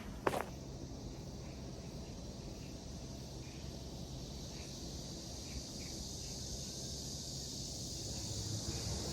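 Insects droning in a steady high chorus that grows louder toward the end, with a single knock or footstep just after the start.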